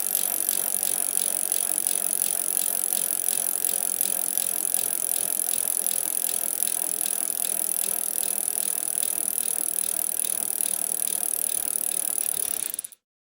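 A steady, rapid mechanical clicking rattle, fast even clicks with no pause or slowdown, that starts and cuts off abruptly.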